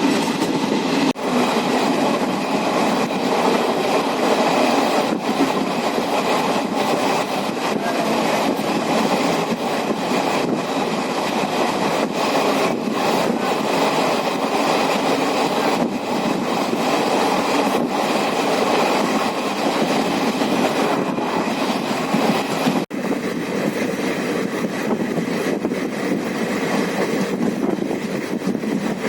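Passenger train running along the track: a steady, continuous rumble of wheels and carriages on the rails.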